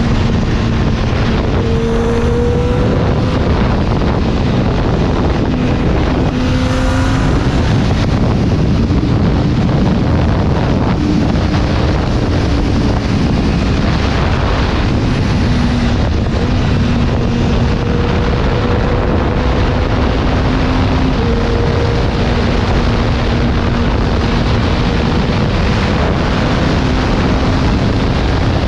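Kawasaki Ninja ZX-25R's 249 cc inline-four running through an Akrapovič Racing Line carbon exhaust while riding downhill, holding fairly steady revs with small rises and dips in pitch over a dense low rumble.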